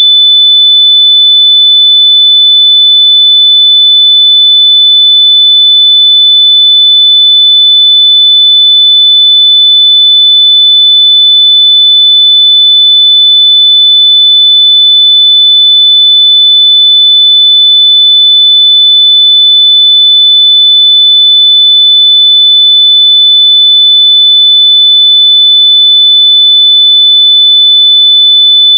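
Electronic sine-wave test tone, a single loud high-pitched note held steady without a break, meant to be played through lost wireless earbuds so they can be found by ear.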